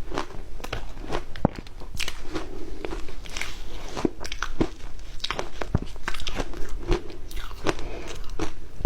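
Ice being bitten and crunched between the teeth: a run of sharp, irregular cracks and crunches.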